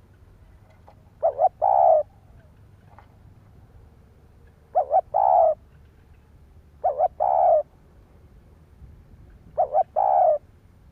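Spotted dove cooing: four phrases, each of two quick short notes and then a longer, drawn-out coo, repeated every two to three seconds.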